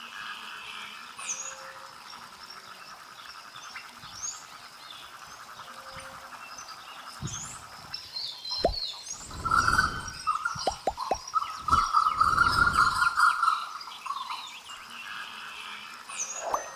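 Frogs calling in a steady pulsing chorus, with louder croaks from about seven to thirteen seconds in. Small birds chirp above them.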